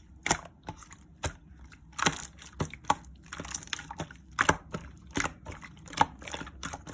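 Clear slime being squeezed and pressed by hand, making irregular sharp sticky pops and clicks, a few a second, with softer squishing between them.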